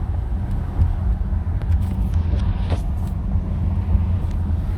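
Steady low road and engine rumble inside a moving car, with a few faint clicks.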